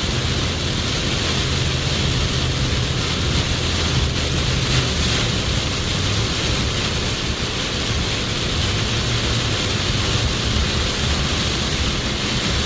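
A car driving through heavy rain on a water-covered road, heard from inside: a steady rush of rain and tyre spray over the engine's low hum.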